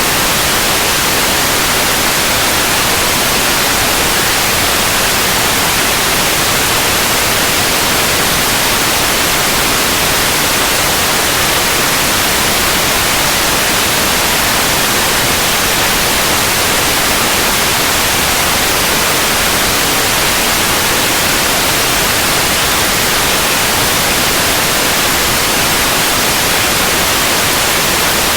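Steady, unchanging white noise: an even hiss across the whole range of pitch, generated for sleep masking.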